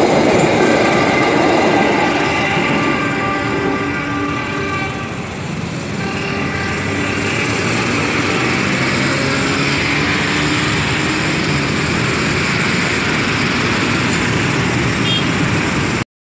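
Passenger train coaches running past close by: a steady loud rumble and rattle of wheels on rail, with drawn-out pitched tones sounding over it.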